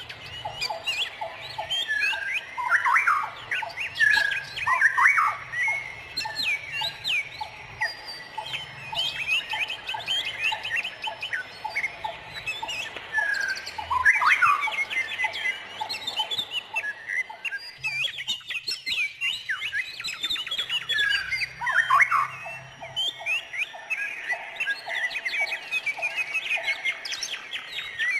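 A chorus of many wild birds chirping and singing at once: overlapping quick whistled notes and sweeping chirps, with several stretches of a rapid run of lower repeated notes.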